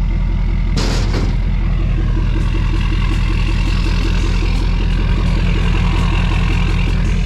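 LS-swapped V8 in a 1978 Chevy pickup idling steadily with an even pulse, and a brief rush of noise about a second in.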